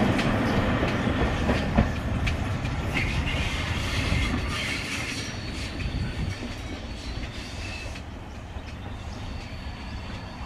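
A train pulling away, its wheels clicking over the rail joints, the sound fading steadily as it draws off into the distance.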